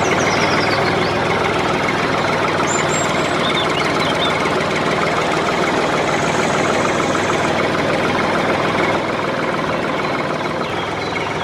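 A small power tool's motor running steadily, a little quieter from about nine seconds in.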